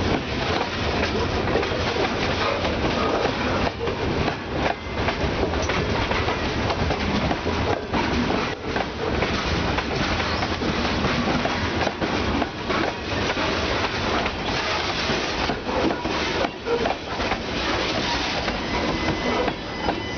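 Freight train cars rolling past close by, with steady wheel-on-rail noise and clacking as the wheels cross rail joints.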